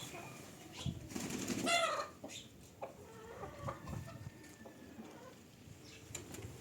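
Short animal calls. The loudest, about two seconds in, is a brief rising cry, with a few fainter calls and small knocks around it.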